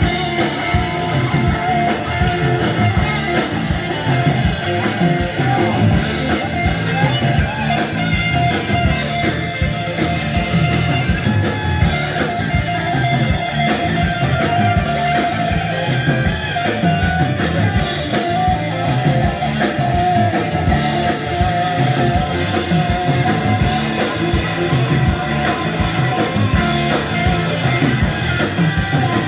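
Live rock band playing, with electric guitar to the fore over bass and drums, and some singing.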